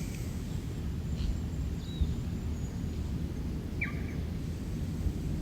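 Outdoor ambience: a few short bird chirps, three of them clear, over a steady low rumble.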